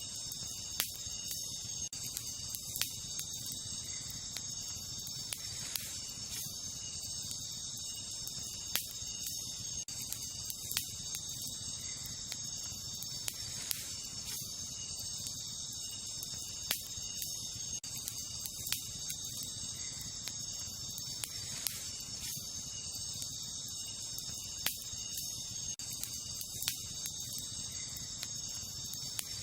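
Wood campfire crackling, with sharp pops every two or three seconds over a low steady rumble of the flames. Behind it, a steady high-pitched chorus of night insects.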